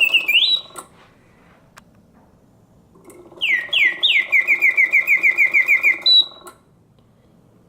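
Karl Griesbaum singing bird cage automaton whistling its bellows-driven bird song in pause mode. A rising whistle at the start, then a pause of about two seconds with only faint mechanism noise. The song resumes with two falling whistles and a fast trill of about a dozen notes over the whirr of the clockwork movement, then stops again for the next pause. A working pause like this shows the mechanical movement is sound.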